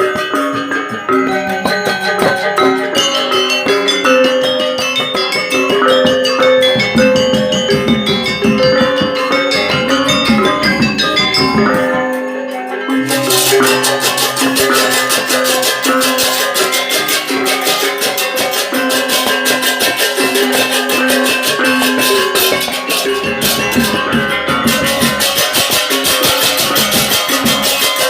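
Balinese gamelan music: tuned bronze metallophones and gongs playing interlocking melodic figures. About halfway in, a dense jangling high layer joins and the texture thickens.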